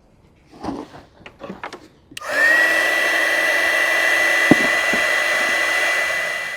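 Small clicks and rustles of handling, then an electric heat gun switched on about two seconds in. Its fan whines up to a steady high tone over rushing air, with one sharp click midway, and it runs for about four and a half seconds before being switched off near the end.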